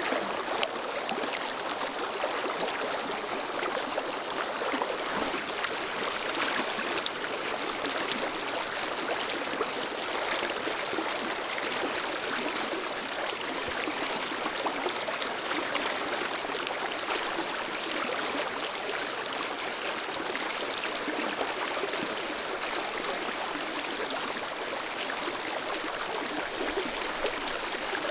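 Clear mountain stream flowing, a steady rush of water.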